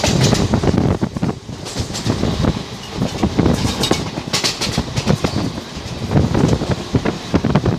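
Passenger train running at speed, heard from on board: the wheels clatter irregularly over the rails under a steady rush of running noise.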